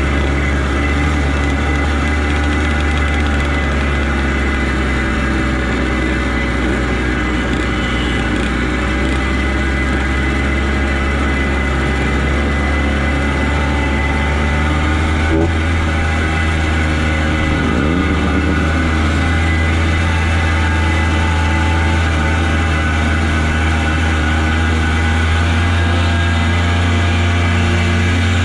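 Motorcycle engine running steadily at an even speed, a constant low tone with little change in pitch or loudness.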